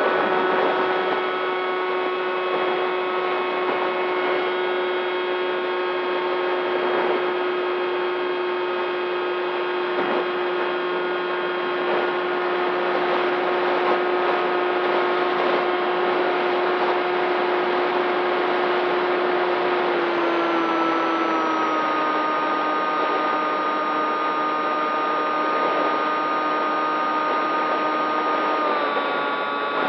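Electric motor and propeller of a radio-controlled model plane running at steady throttle: a high, even whine over a hiss. The pitch steps down a little about twenty seconds in and again near the end as the throttle is eased back.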